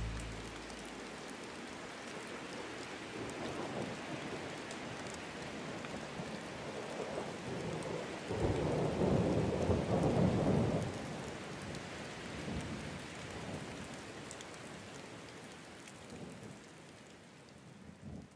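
Steady rain, with a low rumble of thunder swelling about eight seconds in and dying away over a few seconds. The rain fades out near the end.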